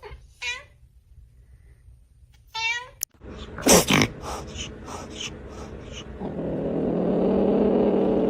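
A domestic cat meowing, several short calls in the first three seconds. After an abrupt change, there is a loud falling call, a few sharp clicks, and then a steady low noise that builds over the last two seconds.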